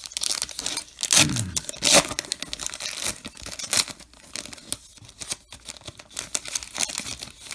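Foil wrapper of a trading card pack being torn open and crinkled, in a run of irregular crackles and rips, loudest about one and two seconds in. A short falling pitched sound comes about a second in.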